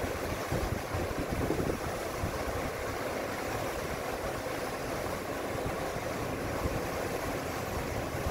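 Steady rushing and rumbling of water churning in a lock chamber as it fills.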